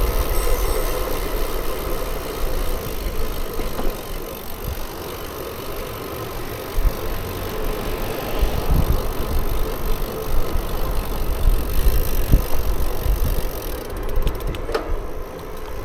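Bicycle ride heard from the bike: gusty wind buffeting the microphone over steady tyre and road noise, with a few sharp clicks or rattles near the end.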